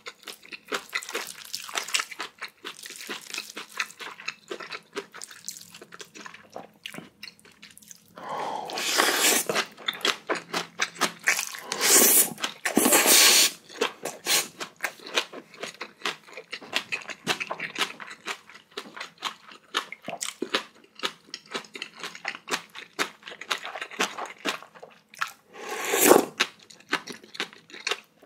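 Close-miked chewing and wet mouth sounds of a person eating spicy bibimbap and kimchi: rapid small clicks and smacks throughout, with a louder noisy stretch about a third of the way in and one loud burst near the end.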